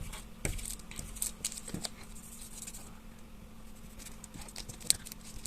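Irregular light taps, clicks and scratches of a child handling paper and drawing tools on a table.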